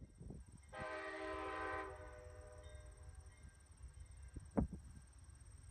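Train horn sounding one blast about a second long, over a low rumble. A single sharp knock comes about four and a half seconds in.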